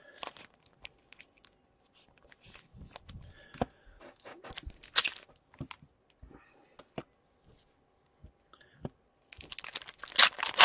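Trading-card pack wrapper being torn open and cards handled: crinkling rustles and small clicks, with a louder tearing rustle about halfway and the loudest one near the end.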